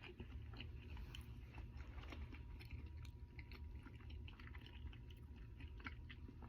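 A man chewing a mouthful of Double Big Mac with diamond grills on his teeth: faint, irregular small wet clicks of chewing.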